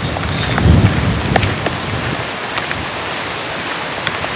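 Steady rain hissing, with scattered drops ticking close by. A low rumble swells and fades within the first second and a half.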